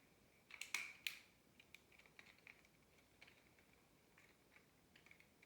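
Faint clicks and ticks of plastic Beyblade parts being handled and fitted back together, with a few sharper clicks about a second in and scattered small ticks after.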